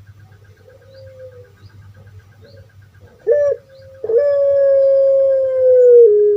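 Puter pelung dove calling. Soft coos come first, then a short loud note a little past three seconds, then a long drawn-out loud coo held for nearly three seconds that slowly falls in pitch.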